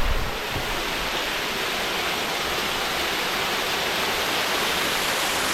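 Waterfall in a jungle, falling water rushing as a steady, even hiss.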